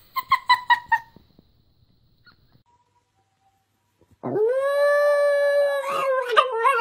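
A puppy's quick run of about five high yips, then after a pause a Shiba Inu's long drawn-out howl, steady at first and then wavering and breaking up near the end.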